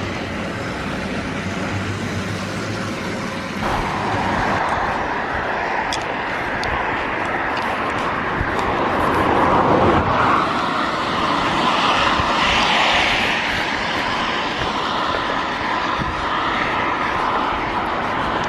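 Steady vehicle running noise, a continuous rumble and hiss that grows louder about four seconds in.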